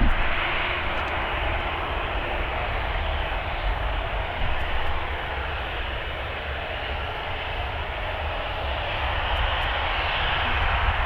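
Aircraft engines running: a steady rushing noise over a deep rumble, growing a little louder near the end, with a brief knock at the very start.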